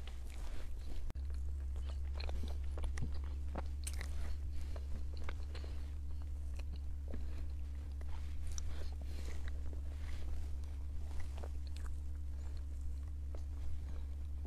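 Close-up eating sounds of someone chewing spoonfuls of chocolate mousse cake: soft chewing and small wet mouth clicks scattered throughout, over a steady low hum.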